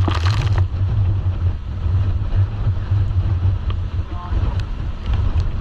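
Motorboat ride with wind buffeting the microphone: a strong, uneven low rumble throughout. There is a short hiss right at the start.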